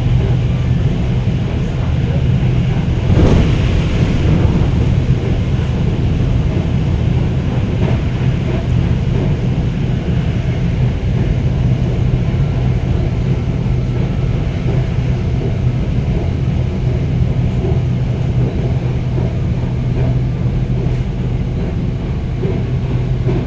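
Red Line electric commuter train running steadily: a constant low rumble and hum, with a brief swell about three seconds in.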